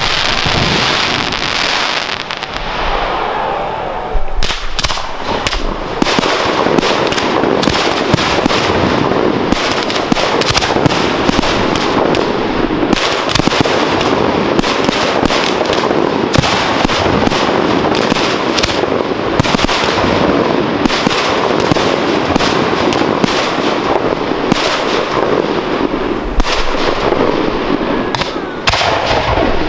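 Professional fireworks display: aerial shells launching and bursting in a rapid, dense barrage of bangs and crackles, several each second, easing briefly near the end.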